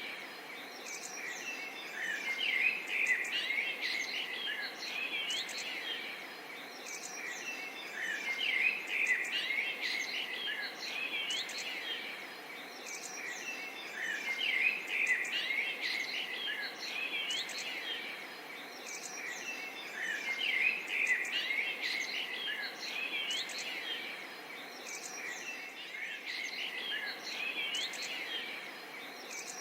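Dense chorus of birds chirping, many short calls overlapping, over a faint steady hiss. The chorus swells and eases every five or six seconds.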